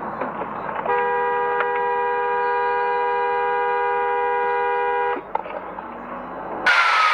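A car horn held in one long, steady blast of about four seconds, two tones sounding together, which cuts off abruptly. Near the end a sudden loud rushing noise cuts in.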